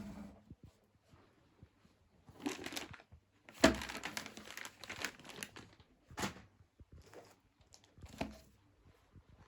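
Crinkly material being crumpled and handled in several rustling bursts, the loudest starting sharply about three and a half seconds in.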